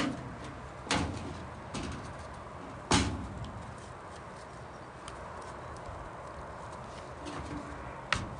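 Knife blows knocking on wood: three sharp strikes about a second apart early on, lighter taps between, and one more strike near the end.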